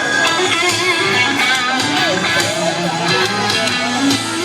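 Live country band playing with an electric guitar leading an instrumental break, its notes bending over the full band.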